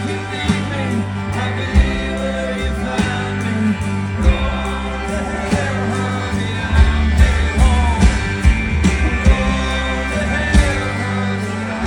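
A country band playing live: sung vocals over guitars, bass and drums, with a steady drum beat.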